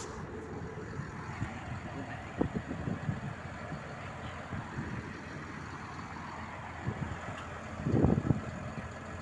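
Tractor engine running as it passes on the road, with a louder low thump about two and a half seconds in and a bigger one near the end.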